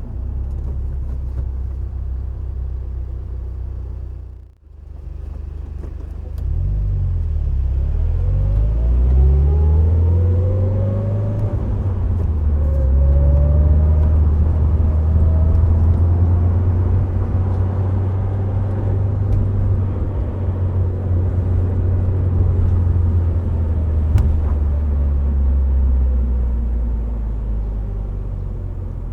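Subaru WRX STI Spec C's turbocharged 2.0-litre flat-four with an A-RM aftermarket exhaust, heard with tyre and road rumble while driving on an expressway. After a brief drop-out about four and a half seconds in, the engine pulls with revs rising through a few gear changes, then settles into a steady cruise that eases off near the end.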